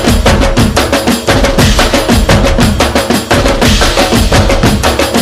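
Dhol-tasha drumming: dhol barrel drums and sharp tasha drums beating out a fast, dense rhythm of rapid strikes.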